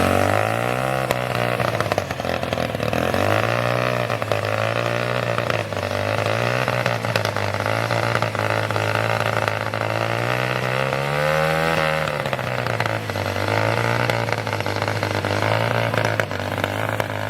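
Mahindra XP Plus tractor's diesel engine revving up and dropping back over and over, about every two to three seconds, with the hardest rev about two-thirds of the way through.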